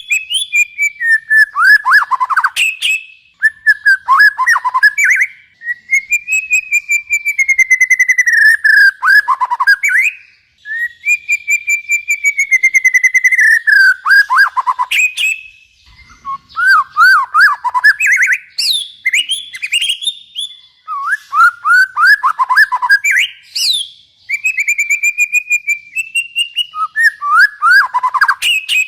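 A songbird singing loud, varied phrases: long wavering whistles and quick runs of falling notes, repeated every few seconds with short pauses between them.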